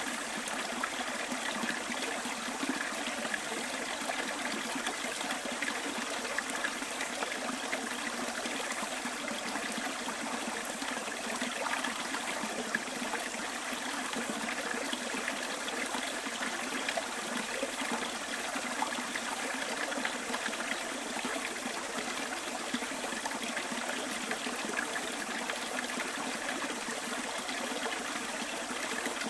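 Stream flowing with a steady, even trickling babble of water.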